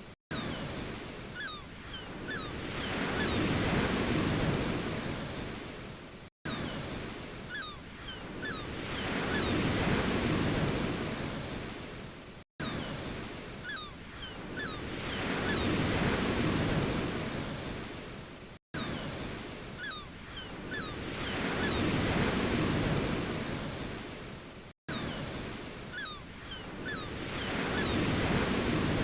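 Ocean surf, waves washing in and drawing back, each swell rising and falling about every six seconds. A few short high chirps come early in each swell. A brief dropout to silence between swells shows the same short recording looped over and over.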